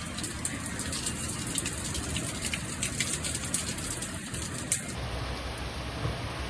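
Storm rain: an even hiss with many scattered sharp drop impacts. About five seconds in it changes abruptly to a smoother, steadier rain hiss with more low rumble.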